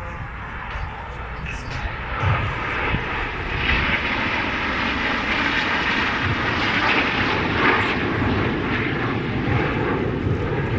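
Aircraft engines of an airshow flypast, a steady rushing noise that swells about four seconds in and holds.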